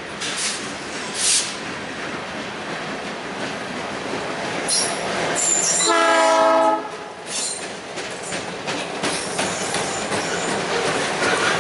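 A train rolling past with steady wheel noise and clatter, a few brief high wheel squeals, and a short locomotive horn blast about six seconds in.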